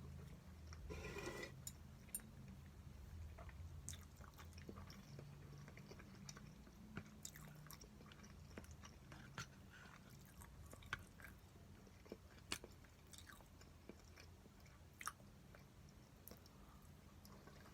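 Faint chewing of spicy stir-fried pork, with scattered small mouth clicks and smacks. A short, louder bite or rustle about a second in, over a steady low hum.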